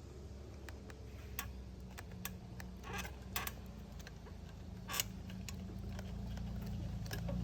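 Scattered light clicks and handling noises as a rubber fuel line is worked onto a small 49cc dirt bike, over a low steady hum.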